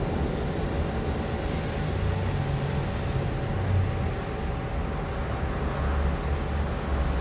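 Low rumble of a train running on the line, with a faint steady hum and wind buffeting the microphone.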